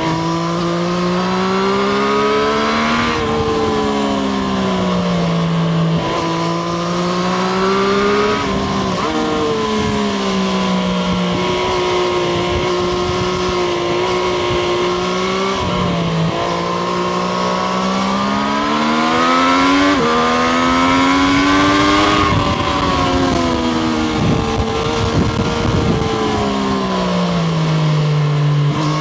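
Triumph Street Triple RS's 765 cc three-cylinder engine heard from onboard, pulling hard up through the gears: the engine note rises, then drops sharply at each upshift, four times, before falling away near the end as the bike slows. A steady rush of wind runs underneath.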